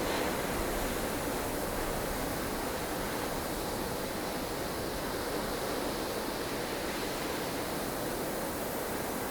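Snowstorm wind blowing steadily: an unbroken rushing noise, weighted toward the lower middle range, with only slight swells in strength.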